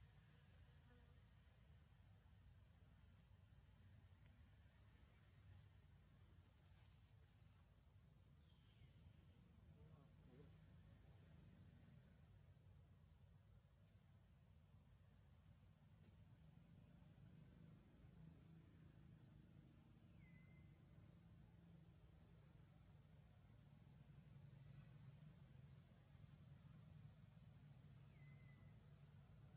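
Faint, steady high-pitched insect chorus with a regular pulse about once a second.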